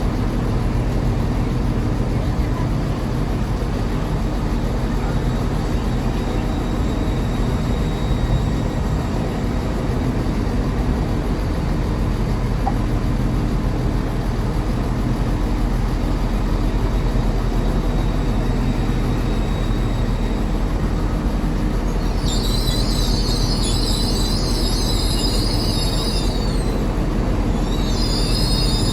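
A train moving with a steady low rumble. About three-quarters of the way through, high-pitched wheel squeal sets in as several shrill tones at once, breaks off briefly, then returns near the end.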